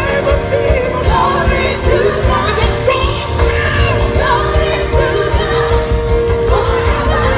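Live gospel music with a band and sung vocals, a steady beat underneath.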